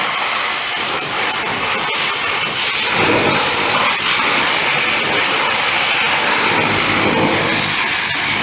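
Pressure washer jet spraying water, a loud, steady hiss.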